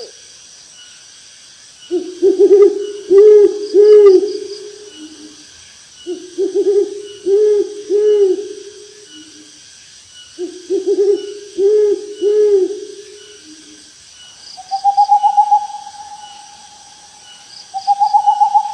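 Owl hooting: three rhythmic phrases of hoots, each about three seconds long and ending on a lower note, then two shorter, higher trilled calls near the end.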